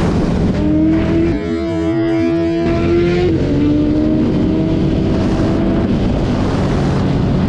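BMW S1000RR inline-four engine running under way, heard on board with wind noise over the microphone. The engine note climbs about half a second in, holds steady, then drops a little just after three seconds. The wind noise briefly eases around two seconds in.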